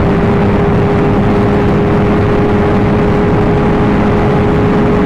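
Motorcycle engine holding a steady note at highway cruising speed, under loud wind and road rush.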